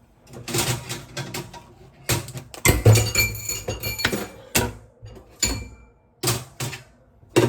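Kitchenware being handled: an irregular series of clattering knocks and clinks, several leaving a short bright ring.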